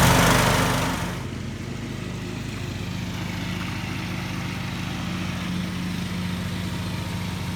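Small gasoline engine running steadily. It is loud at first and turns quieter about a second in, then holds an even hum.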